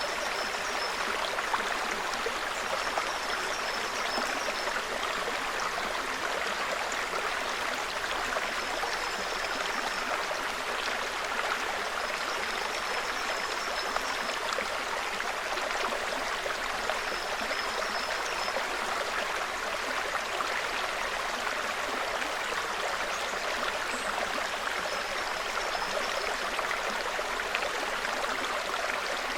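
Small forest brook burbling steadily over stones. Faint high chirps recur every few seconds above the water.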